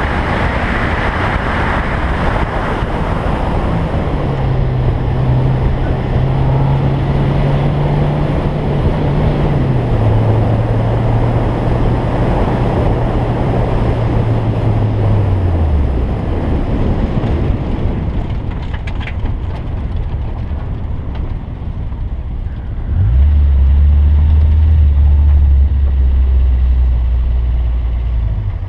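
Wind rushing over a car-mounted microphone with the Toyota Trueno's engine note beneath it, its pitch stepping down several times as the car slows. About 23 seconds in, a louder, low, steady engine drone takes over as the car idles.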